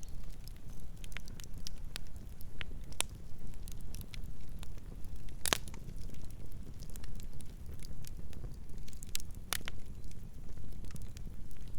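Campfire burning: a steady low rumble of the flames with frequent sharp crackles and pops of the burning wood, two louder pops about five and a half and nine and a half seconds in.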